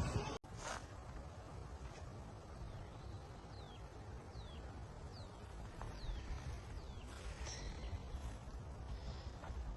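A bird calling: a series of about five short, high chirps, each sliding downward in pitch, spaced a little under a second apart, over a low steady background rumble.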